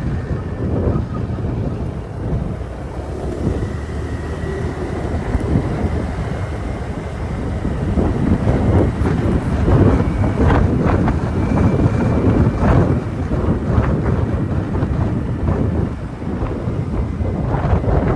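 Wind buffeting the microphone over the low rumble of a moving motorbike, steady throughout.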